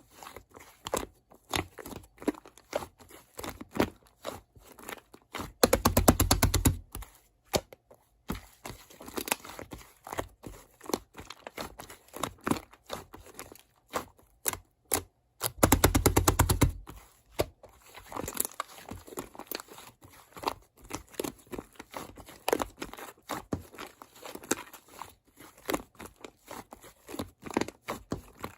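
Paper being handled and crinkled, with scattered clicks and crackles, and two loud one-second stretches of rapid crackling about six and sixteen seconds in.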